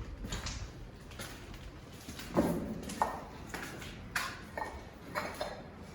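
Footsteps on a hard, debris-strewn floor, a string of irregular sharp steps and knocks from about two seconds in, over a low rumble of wind buffeting the microphone.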